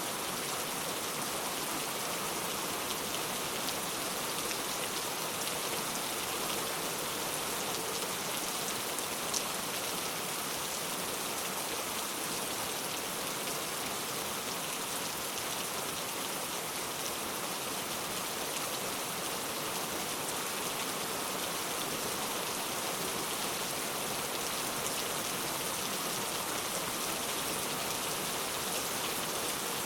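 Steady rain falling, an even hiss of drops on a surface with faint scattered drip ticks.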